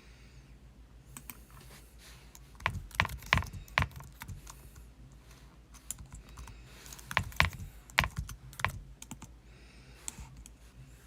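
Irregular light clicks and knocks of kitchen utensils and items being handled and set down as a countertop work station is cleared, in two busier clusters.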